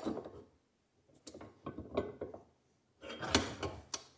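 Metal parts and tools handled on a workbench: rubbing and scraping with small knocks in three short bouts, loudest about three and a half seconds in.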